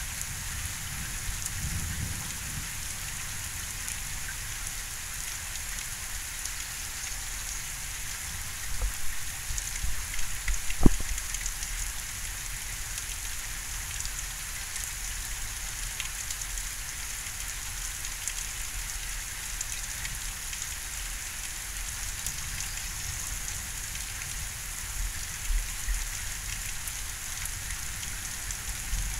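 Steady rain falling during a thunderstorm, an even hiss. A few low thumps break in around ten seconds in, the loudest a single sharp knock, with a smaller pair near the end.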